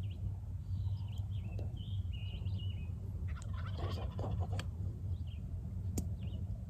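A wild turkey gobbler gobbling once, a rapid rattling call a little past the middle, with small songbirds chirping before it.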